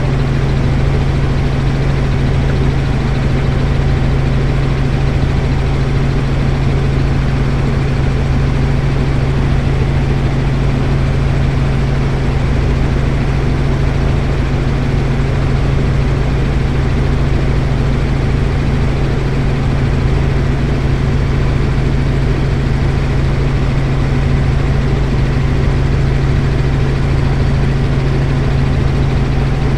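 Helicopter heard from inside the cabin in steady flight: a constant, loud drone of engine and rotor with a strong low hum that never changes.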